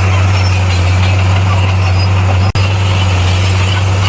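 Bulldozer's diesel engine running steadily with a deep, even hum, the sound cutting out for an instant about two and a half seconds in.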